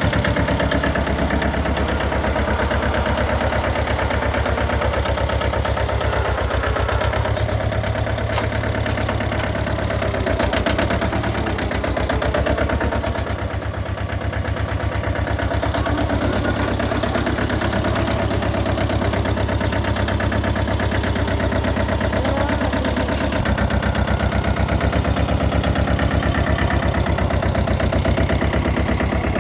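Mini tractor engine running steadily with a fast, even pulse, easing off slightly about halfway through.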